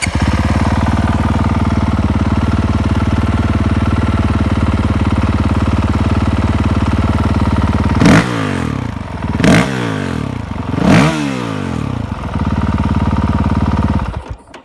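Honda CRF450X single-cylinder four-stroke engine breathing through a Pro Circuit exhaust, idling steadily just after starting. About eight seconds in it is blipped three times, each rev rising and falling quickly, then it settles back to idle and is shut off near the end.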